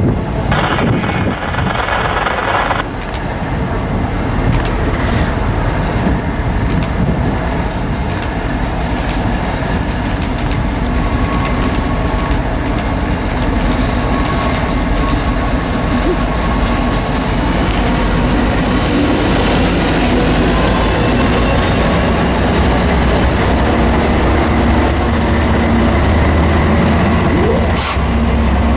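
A CSX freight train led by an EMD SD40-3 and a GE ES40DC diesel-electric locomotive approaches and passes. The diesel engines' drone grows louder as the locomotives come close near the end.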